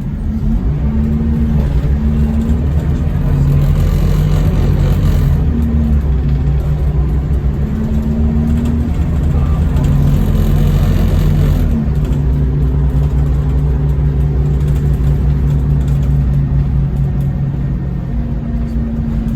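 Scania L94UB bus engine running on the move, a steady low rumble whose note shifts a few times as the engine speed changes.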